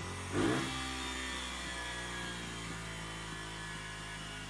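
Honda XR80R's small single-cylinder four-stroke engine idling steadily, warm and freshly carb-tuned, with a short burst of revs about half a second in.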